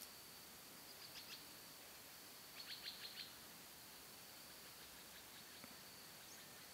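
Faint, short bird chirps in two quick clusters, about a second in and again around three seconds in, over a steady high-pitched drone.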